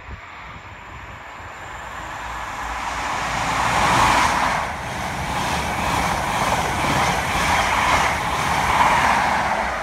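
An InterCity 125 high-speed train passing through at speed. The sound grows as it approaches and is loudest about four seconds in, as the Class 43 power car goes by. The Mark 3 coaches then follow with a steady rhythmic clatter of wheels over the rail joints.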